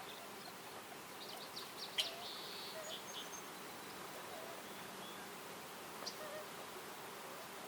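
Forest ambience: small birds giving short, high chirps and call notes over a steady background hiss. The loudest is a single sharp chirp about two seconds in.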